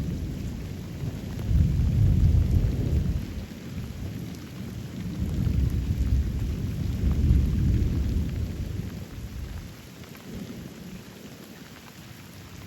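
Thunder rumbling twice, long and deep, over steady rain; the second roll dies away about two-thirds of the way through, leaving the rain.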